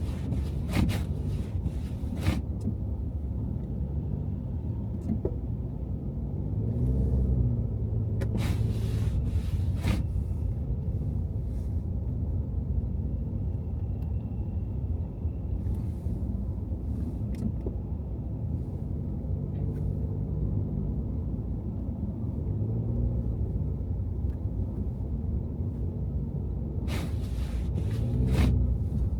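Car driving on snowy city streets: a steady low rumble of engine and tyres, with the engine note rising a few times as the car pulls away. Louder hissing swells come about eight to ten seconds in and again near the end.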